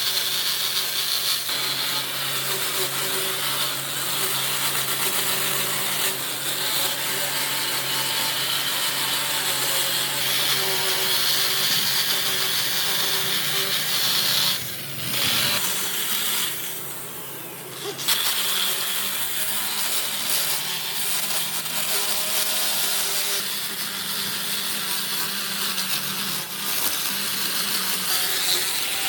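Electric power tool running steadily against wood, cutting or abrading it with a motor hum beneath. It eases off briefly twice around the middle, then carries on.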